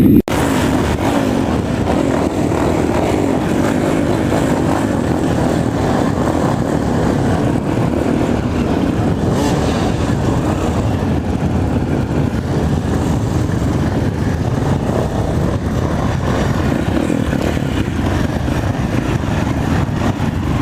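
Trail motorcycle engines running together, a steady dense engine noise with no breaks.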